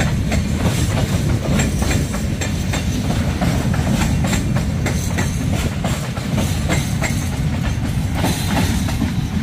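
Freight train of mostly empty flatcars rolling past at close range: a steady low rumble of wagons, with wheels clicking over the rail joints again and again.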